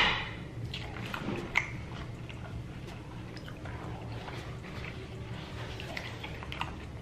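Person eating close to the microphone: a loud bite right at the start, then chewing with small crackles and wet clicks.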